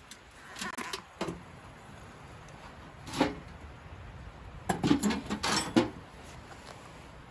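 A series of sharp knocks and clatters over a low background: a few near the start, one about three seconds in, and a quick run of louder ones near the end.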